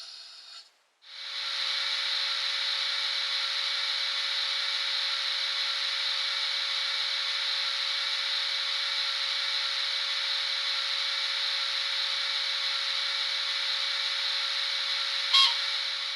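Minitrix N-scale SBB Ce6/8 'Crocodile' model electric locomotive running, heard as a steady rasping noise over a constant hum from the model and its onboard DCC sound decoder, with no low bass. It starts about a second in after a brief silence, and a short sharp tone sounds near the end.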